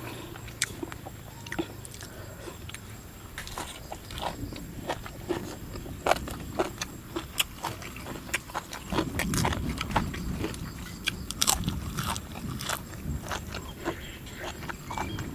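A person chewing and crunching food with irregular crisp crackles, eating papaya salad with crispy fried pork rinds.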